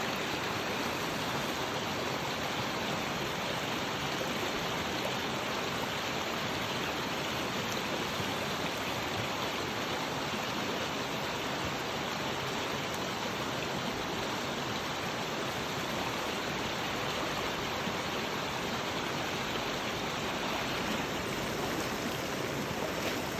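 Flowing river water: a steady, unbroken rush.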